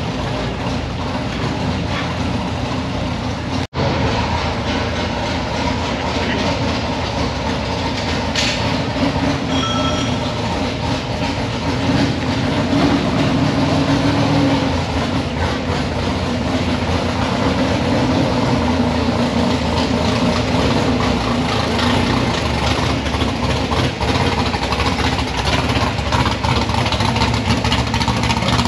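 Engines of American show cars rumbling steadily as the cars drive slowly out of the show.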